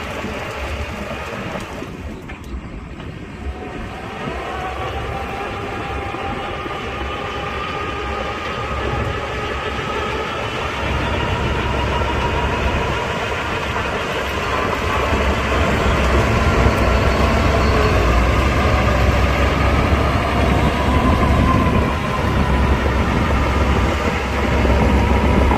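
Crawler bulldozer running under load, its diesel engine and steel tracks making a steady clanking rumble that grows louder partway through.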